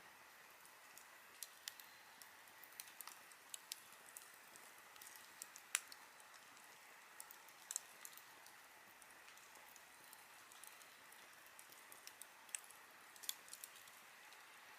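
Wood campfire crackling: a faint steady hiss with irregular sharp pops and snaps, the loudest about six seconds in.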